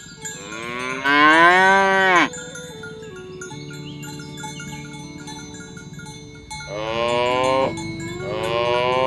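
Cattle mooing: one long moo that rises and then falls in pitch over about two seconds, then, after a pause, a shorter moo and a third starting near the end.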